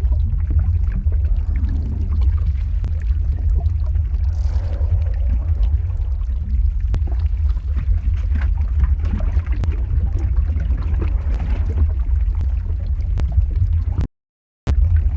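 Lava-flow ambience sound effect: a deep, steady rumble with a gurgling wash and scattered sharp crackles. It cuts out completely for about half a second near the end, then carries on.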